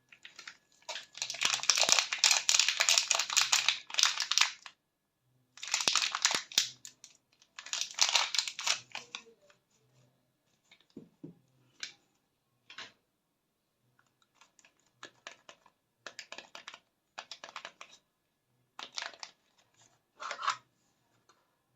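Bars of soap and their paper wrappers being scratched, crinkled and torn open, in scratchy crackling bursts. The longest runs about three seconds near the start, followed by two shorter bursts and then a string of brief scrapes and taps.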